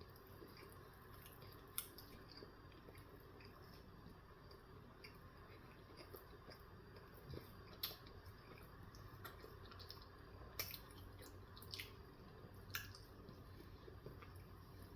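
Faint close-miked chewing of a bagel sandwich, with a handful of short wet mouth clicks and smacks spread through an otherwise very quiet stretch.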